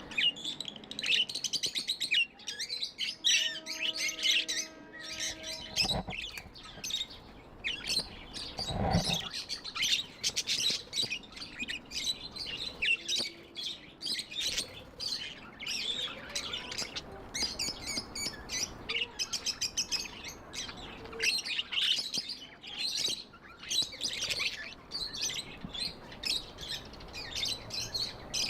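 A flock of pet budgerigars chirping in a rapid, continuous chatter of short high notes, with a single knock about six seconds in.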